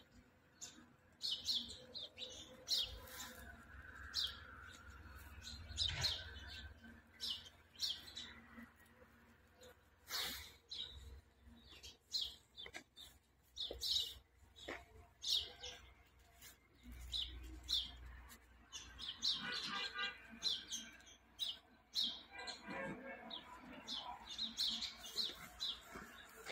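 Small birds chirping, with many short, high chirps scattered throughout.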